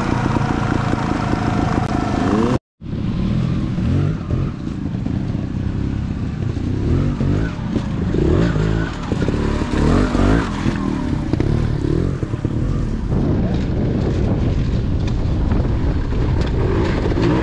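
Trials motorcycle engine running fairly steadily, then, after a brief dropout about three seconds in, revving up and down again and again under the throttle.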